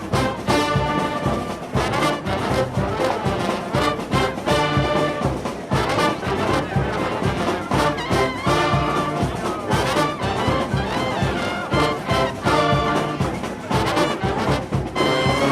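Brass band music, with brass instruments playing over a steady percussion beat.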